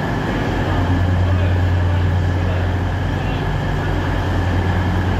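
Diesel multiple unit idling at the platform: a steady low engine hum with an even drone, with no change in pitch or level.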